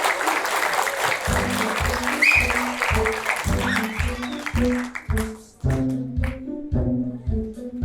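Audience applause that dies away about five seconds in, over music with a low, repeating bass line that starts about a second in.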